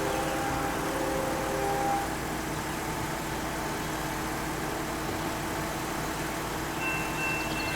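Diesel locomotive engines running with a steady rumble. A faint chord of tones fades out about two seconds in, and a thin high tone begins near the end.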